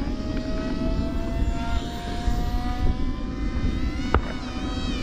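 Radio-controlled jet in flight, a steady whine that rises slowly in pitch as it makes a low pass, over a steady low rumble. Sharp clicks come near the start and about four seconds in.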